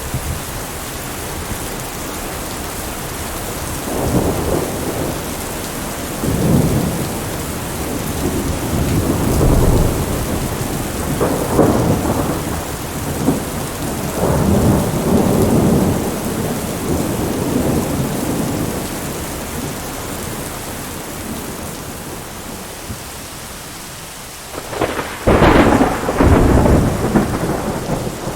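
Steady heavy rain with rolling thunder: long rumbling peals swell and fade through the first half, and a sharper, louder crack and rumble comes near the end.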